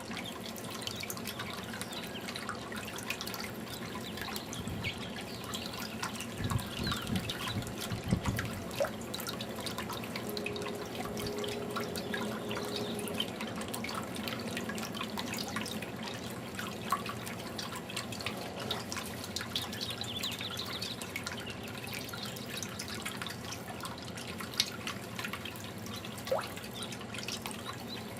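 Fountain water trickling and dripping steadily, with a few low bumps about six to eight seconds in.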